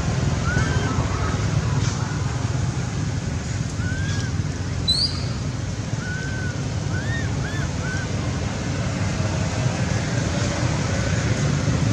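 Steady outdoor rumble like wind on the microphone, with a few short high chirps, several in quick succession about 6 to 8 seconds in.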